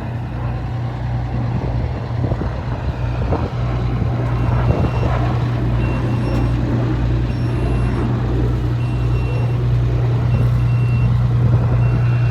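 Diesel engine of a 1997 Pierce Arrow pumper fire engine running with a steady low hum, growing louder from about four seconds in. A backup alarm beeps in short spells near the middle and again near the end.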